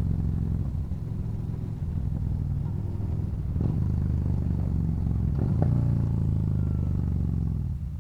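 Yamaha Bolt's air-cooled V-twin engine running while the bike is ridden, a steady low engine note with a couple of brief changes around the middle; the level falls away near the end.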